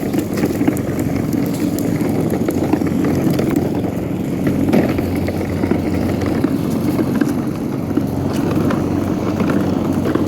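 A toddler's toy truck rolling along the sidewalk: a steady rumble of its wheels on the pavement.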